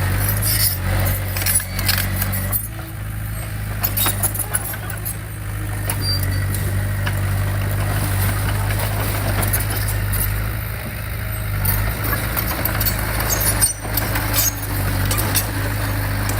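Diesel engine of a heavy earthmoving machine running steadily with a low hum, with scattered clanks and rattles over it.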